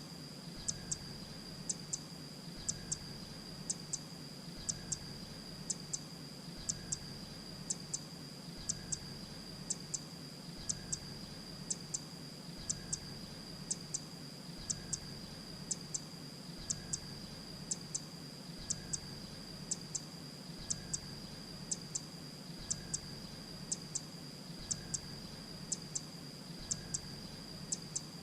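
Grey-breasted prinia calling: short, high notes in quick pairs, repeated about once a second, over a steady high-pitched whine.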